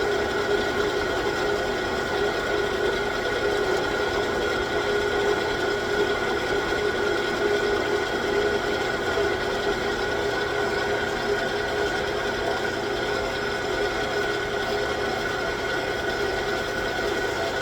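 9x20 gear-head engine lathe running steadily with a constant gear whine, taking a light skim cut.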